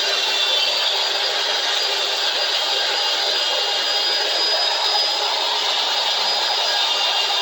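A power tool running steadily with a high whine, working old tape and grime off a metal bar clamp.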